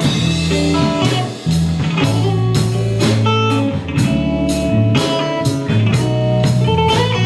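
Live band playing a blues-flavoured instrumental passage: electric guitar over bass and a drum kit keeping a steady beat.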